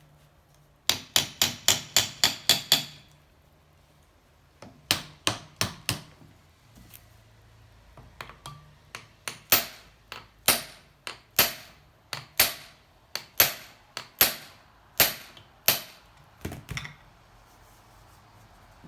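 Hammer blows driving wedges in to prise the stuck cylinder off a Honda C70 engine's crankcase. There is a quick burst of about eight blows, then four more, then a slower, steady series of about a dozen.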